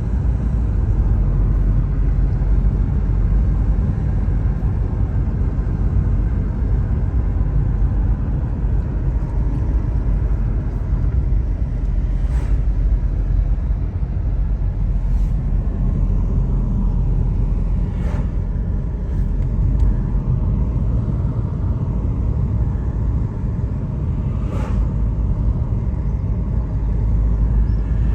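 Steady low rumble of a car driving on an open road, tyre and engine noise heard from inside the cabin, with a few faint ticks here and there.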